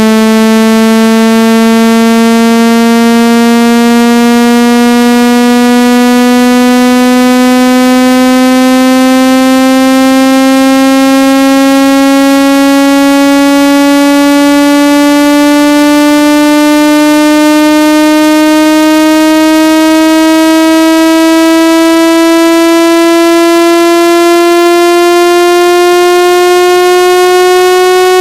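Synthesized water-ejection tone for clearing water out of a phone or earphone speaker: one loud, buzzy, overtone-rich tone held continuously and sliding slowly and steadily upward in pitch.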